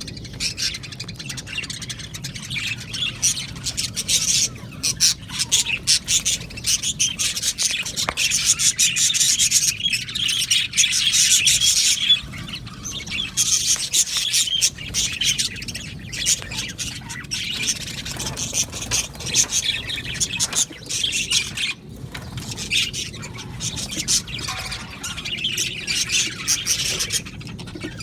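Flock of budgerigars chirping and chattering continuously, many short sharp calls overlapping.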